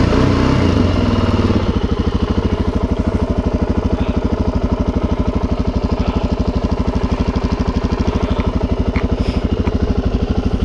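Suzuki DR-Z400's single-cylinder four-stroke engine just after starting: it runs a little fast and uneven for about a second and a half, then settles to a steady, evenly pulsing idle.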